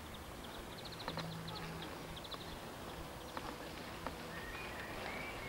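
Birds singing: bursts of rapid high chirps and short whistled notes, with a few sharp clicks and a low hum underneath.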